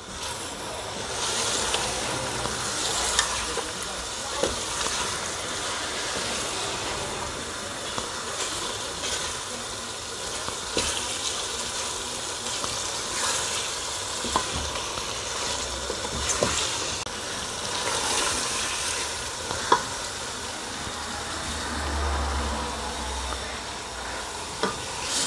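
Chicken pieces frying in oily masala in an aluminium pot over high gas, sizzling steadily. The sizzle swells with each stroke of a wooden spatula scraping through, and the spatula knocks sharply on the pot now and then. This is the bhuna stage, the chicken being browned in the spice paste on high heat.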